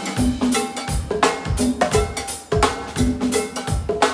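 Live band playing an instrumental go-go groove: drum kit and percussion beating a steady rhythm, with short bass notes under the beat.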